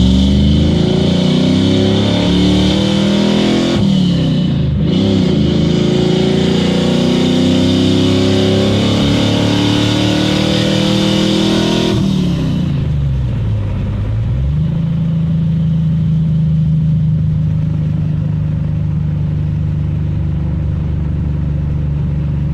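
Carbureted Vortec small-block V8 with an LT4 hot cam, revving up over a few seconds, easing off briefly, then climbing again for several more seconds. About halfway through the throttle closes and the engine drops back to a steady lower speed, a lumpy idle.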